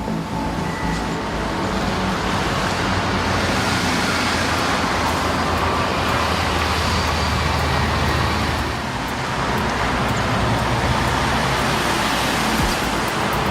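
Timber truck engine running under load with tyre and road noise. The engine note shifts and dips briefly about nine seconds in, then picks up again.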